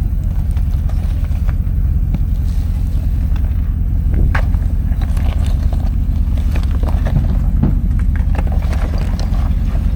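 Truck engine idling with a steady low rumble, with scattered short metallic clicks and knocks from winch rigging being worked, mostly in the second half.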